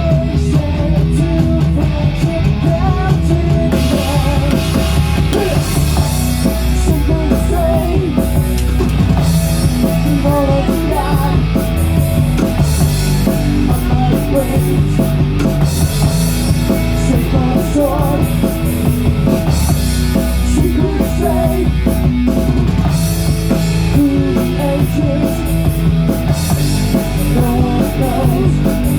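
Rock band playing live: electric guitar and bass with a full drum kit, the cymbals coming in about four seconds in.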